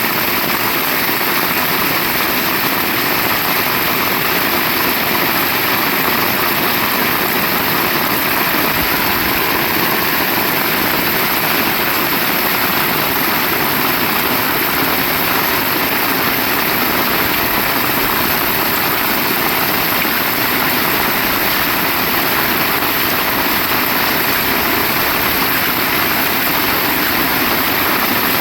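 Heavy rain falling, a loud steady hiss that does not let up.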